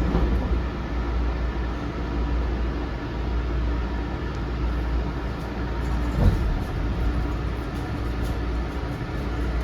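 Tsukuba Express electric train running, heard from inside the car: a steady low rumble of wheels on rail, with one brief knock about six seconds in.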